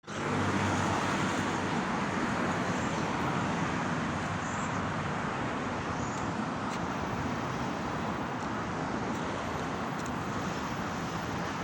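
Steady road-traffic noise, an even hiss and rumble without clear breaks.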